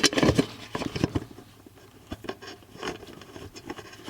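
Sheet-metal access cover of an electric water heater being fitted against the tank jacket: a run of light clicks and scrapes in the first second or so, then sparser taps and rubbing as the cover's screw hole is lined up.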